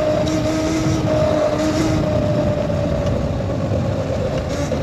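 A modded Razor MX650 electric dirt bike's motor and chain drive whining steadily at speed, the pitch easing down slightly toward the end, over wind noise on the microphone.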